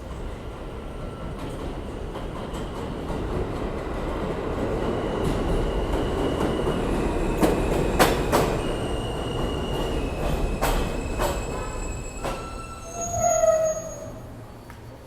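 New York City Subway R160A train pulling into a station: the rumble builds with wheels clacking over rail joints, then squealing tones as it brakes. The loudest squeal comes about 13 seconds in, just before it stops and the noise drops.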